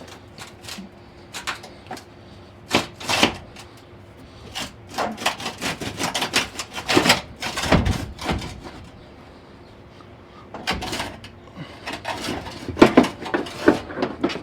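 Irregular knocks, clanks and rattles of hand tools and metal parts while a pickup's front bumper is being unbolted and worked loose. They come in clusters, busiest in the middle and again near the end.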